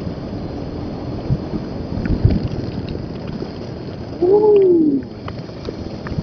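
Wind rushing over the microphone of a rider on a moving Bajaj Pulsar RS200 motorcycle, a steady buffeting noise with the bike's running underneath. About four seconds in, the rider lets out a drawn-out exclamation whose pitch rises and then falls.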